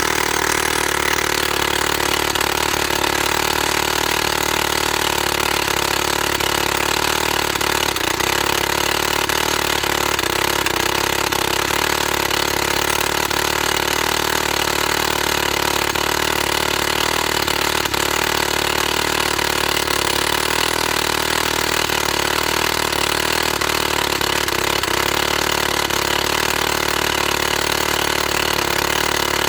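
Two-stroke petrol engine of a YN30A mini rock drill running steadily, without a break.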